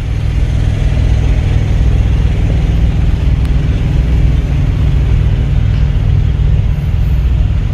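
Semi-truck diesel engine idling steadily, a low, even rumble.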